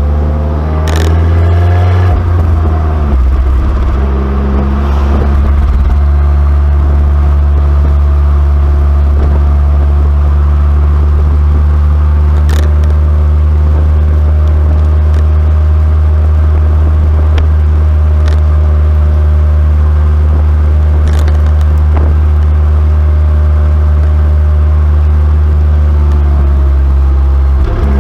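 Abarth 595C Competizione's 1.4-litre turbocharged four-cylinder, heard through its Record Monza exhaust, running with a steady low drone at constant revs. The revs shift in the first few seconds and again near the end, and a few brief clicks sound over it.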